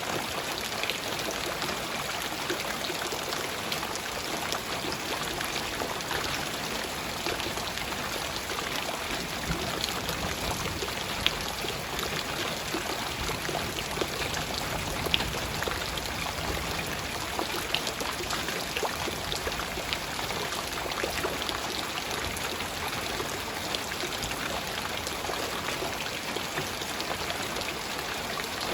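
Light, steady rain: an even hiss scattered with small drop ticks, with a couple of sharper drips about a third and about halfway through.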